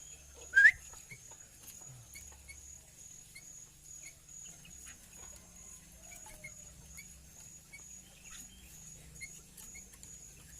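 A bird gives one loud, short rising call about half a second in, then faint short chirps repeating roughly twice a second. A faint steady high tone runs underneath.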